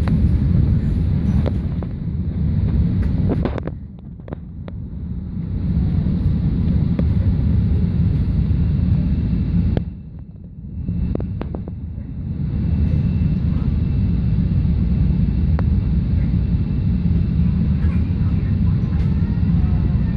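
Chicago 'L' elevated train running on its tracks, heard from inside the car: a steady low rumble that drops away briefly twice, about four and ten seconds in, with a few sharp clicks around those dips.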